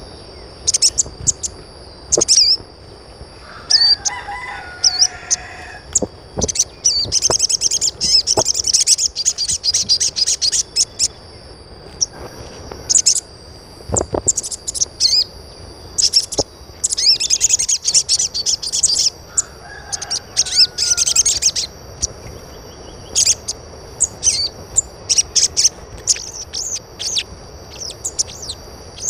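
Birds chirping in quick, high runs, with two longer, lower calls, one about four seconds in and another about twenty seconds in.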